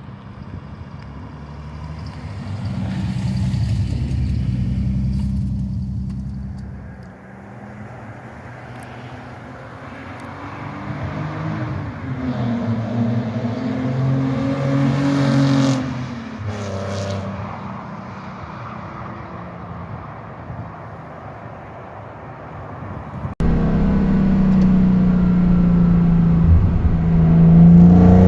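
A Nissan 300ZX's naturally aspirated VG30DE 3.0 V6 through an aftermarket exhaust, driving past twice, its note swelling and then fading. After a sudden cut it is heard close and louder, the revs climbing near the end as it accelerates.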